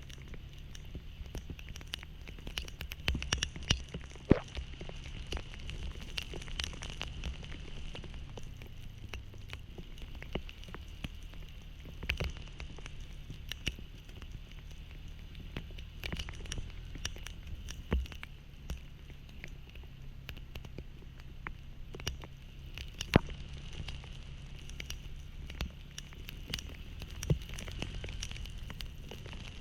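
Heavy rain pattering, with many irregular sharp raindrop hits striking close to the microphone, over a low steady engine hum.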